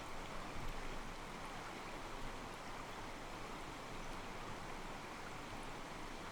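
Calm mountain stream flowing over rocks: a steady rush of water with soft sloshing against the stones.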